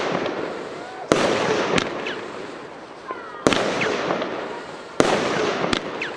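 Argento 'Veronica' 13-shot consumer firework battery firing: three sharp bangs, a second or two apart, with two lighter pops in between. After each bang a noisy burst trails off over a second or two.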